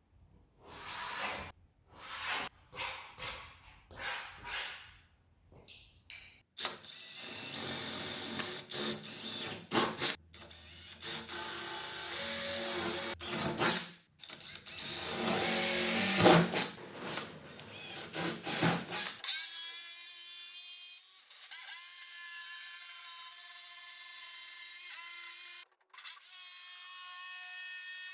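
A power drill running in short bursts with knocks and clatter between them, then in longer runs. About two-thirds of the way through it gives way to a thinner, steady whine.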